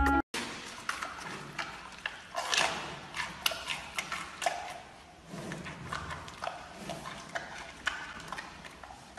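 Giant panda chewing a bamboo shoot: irregular crisp crunches and snaps, several a second.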